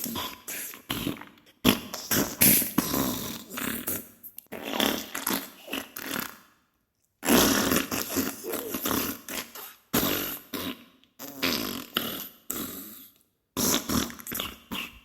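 Diarrhea sound effect: a run of short fart bursts one after another, broken by a pause of about half a second some seven seconds in and another brief pause near the end.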